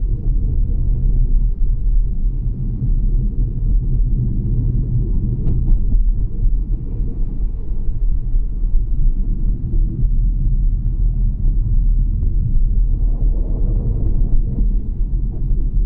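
Steady, loud low rumble, with no clear pitch or separate events.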